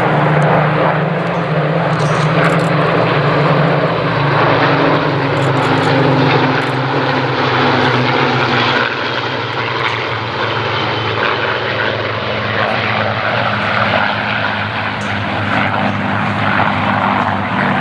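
Piston-engined Second World War fighter aircraft flying past, a loud propeller-engine drone whose pitch slowly falls over the first half, then eases off a little.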